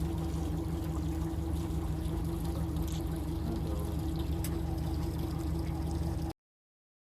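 Boat motor running steadily, with water rushing and splashing along the hull. The sound cuts off suddenly about six seconds in.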